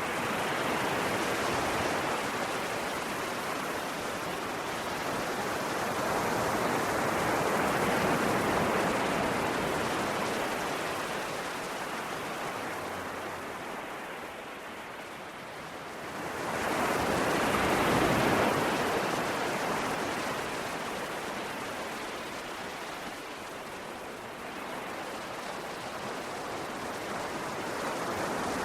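Ocean waves washing in, a steady rush of surf that swells and fades every several seconds. The biggest surge comes about two-thirds of the way through.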